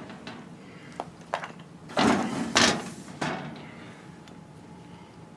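Handling of metal cabinet and caster parts: two light clicks, then three short knocking, scraping sounds.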